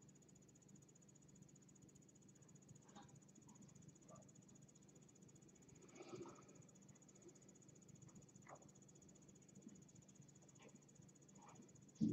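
Near silence: faint room hum with a few soft, scattered scuffs and taps of kittens moving about, and one louder sudden knock right at the end.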